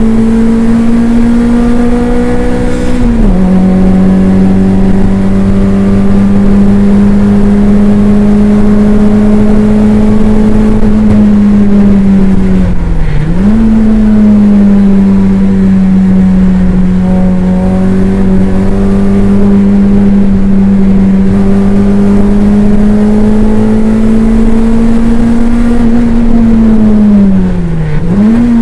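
Toyota MR2 race car's engine, heard from inside the cabin, running hard under load. Its note holds steady or climbs slowly for long stretches and dips sharply in pitch and recovers three times.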